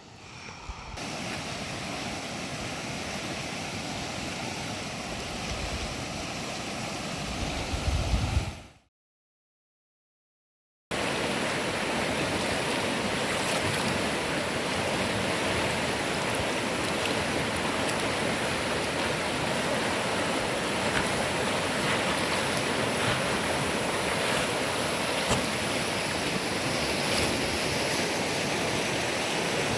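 Steady rush of moving river water. Low rumbles of wind on the microphone come shortly before a cut to about two seconds of dead silence, roughly nine seconds in, after which the rushing water continues.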